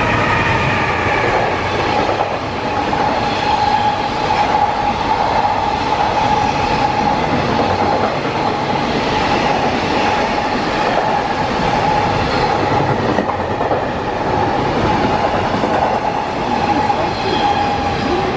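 Freight train passing at speed, its wheels clattering on the rails, with a steady high tone above the rumble.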